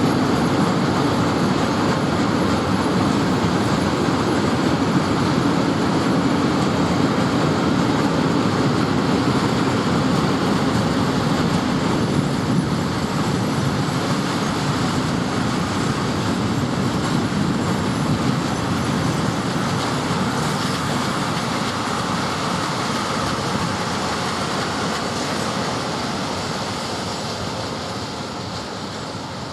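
A train running past on the tracks: a steady rail rumble that fades away toward the end.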